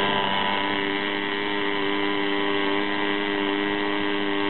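Home-made NGEZ-1 model diesel engine running steadily at constant speed, an even pitched tone with many overtones.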